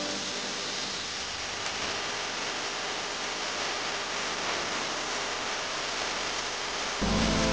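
Chicken pieces in red curry paste sizzling steadily as they fry in a pan.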